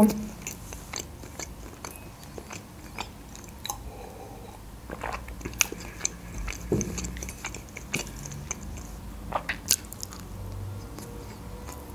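A person chewing food close to the microphone, with many small wet clicks and smacks of the mouth scattered through it, a few of them louder.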